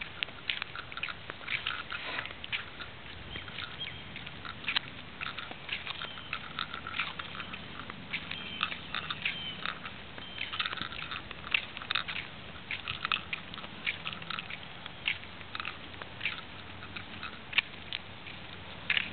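Small birds chirping in short, irregular calls, with a faint steady low hum underneath.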